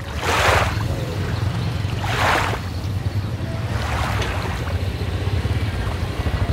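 Wind buffeting the microphone: a steady low rumble with three short gusts of hiss, the first two strongest, about half a second and two seconds in.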